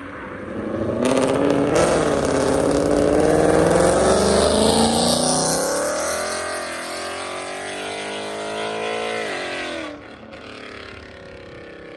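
Car engine revving hard as the car accelerates away, loud, its pitch climbing and then dropping as it shifts or lets off. The sound cuts off abruptly near the end, leaving a quieter engine behind.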